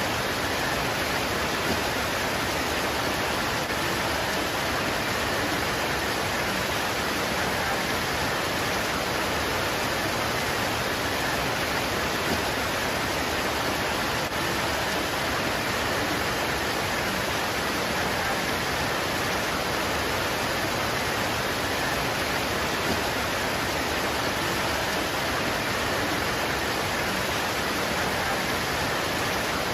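Steady rain pouring on leaves, an even hiss that does not let up.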